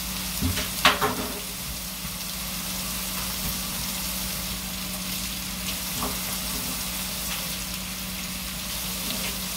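Cabbage frying in a pan, a steady sizzle with a low hum underneath. There is a sharp knock about a second in and a fainter click around six seconds.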